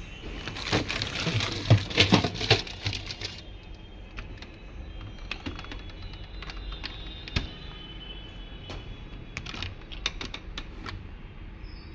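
A quick run of loud clicks and rattles for about three seconds, then scattered single clicks, over a low steady hum.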